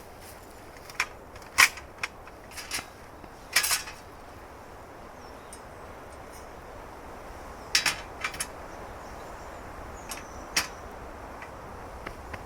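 Scattered light clicks and knocks, a few close together, as objects are handled over a steady outdoor background hiss.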